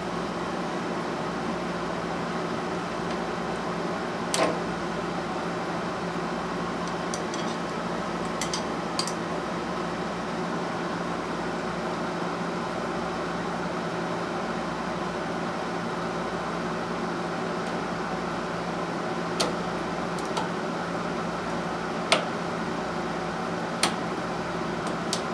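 Steady machine hum in a small room, with a handful of short, sharp clicks and taps of hand tools on metal scattered through it.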